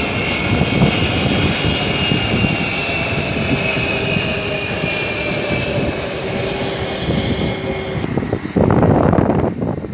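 Airliner engines running loud and steady, with a high whine over a broad rush. About eight seconds in the high whine drops away, and near the end wind buffets the microphone.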